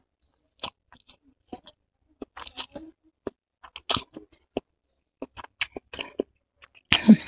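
A person chewing a mouthful of vegetable chow mein noodles, with scattered wet mouth clicks and smacks at irregular intervals. A voice starts just before the end and is the loudest sound.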